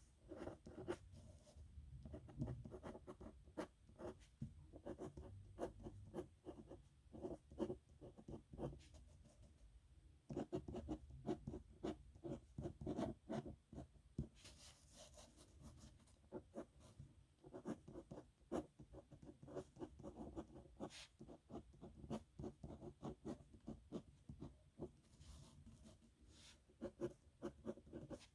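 Metal nib pen scratching across paper in quick, irregular strokes as someone writes by hand, with a longer scratchy stroke about fifteen seconds in.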